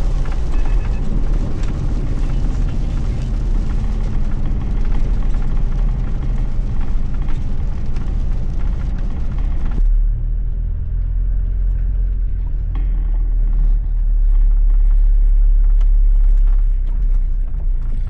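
Steady cabin noise from a Toyota Land Cruiser Troop Carrier driving in heavy rain: at first a broad hiss of rain and road spray over the drive. About ten seconds in this cuts off abruptly, leaving a low engine and road rumble.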